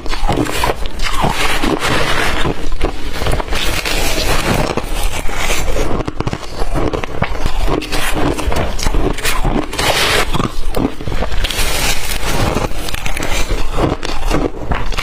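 Blender-crushed ice being bitten and chewed close to the microphone: continuous dense, crackly crunching.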